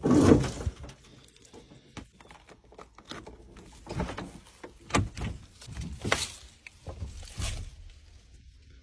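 Scattered knocks and rustling handling noises, a loud one at the very start and then several more about a second apart.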